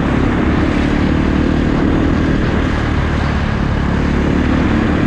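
Kawasaki KX450 dirt bike's single-cylinder four-stroke engine running under way at a fairly steady pitch.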